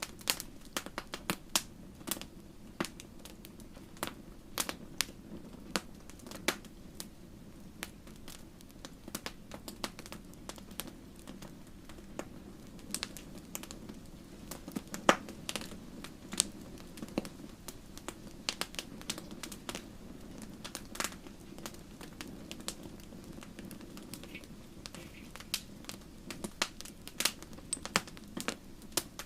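Wood fire crackling in a fireplace: irregular sharp pops and snaps, several a second, over a soft steady low rumble of the flames.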